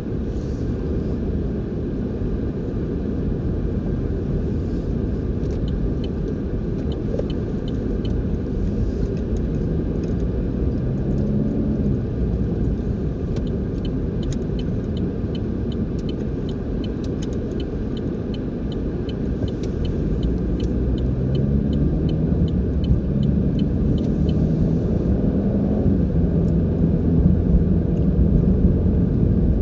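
Motor vehicle running on the road: a steady low rumble of engine and road noise, the engine pitch rising twice as it speeds up, once about a third of the way in and again through the last third. A regular light ticking, about two to three a second, runs through the middle.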